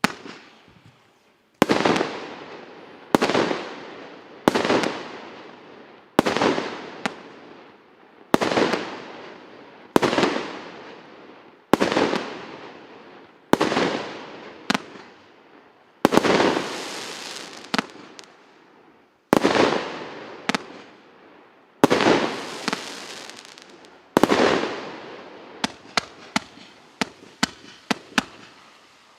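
An 86-shot consumer fireworks battery (cake) firing: loud bangs about every one and a half to two seconds, each trailing away before the next. Near the end it changes to a quick run of smaller sharp pops.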